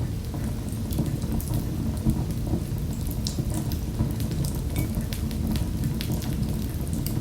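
Wood fire in a fireplace crackling: a steady low rumble with scattered sharp pops and snaps.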